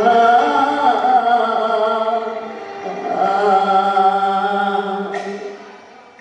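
Cantonese opera singing with accompaniment: a long drawn-out note with vibrato, then a second held note, fading near the end, with a brief crash-like strike about five seconds in.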